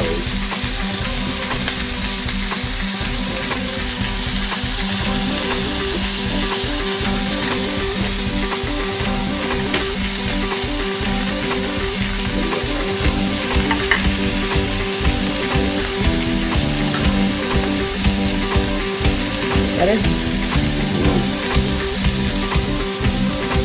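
Halved Brussels sprouts sizzling steadily in hot oil in a nonstick frying pan, stirred now and then with a plastic slotted spatula.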